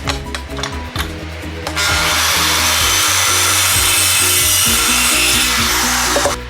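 Background music, joined about two seconds in by a loud, steady hissing workshop noise that lasts about four seconds and cuts off suddenly.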